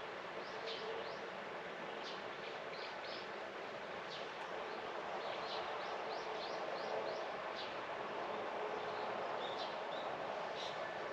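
Small birds chirping in short, quick runs of high notes over a steady background of outdoor ambient noise.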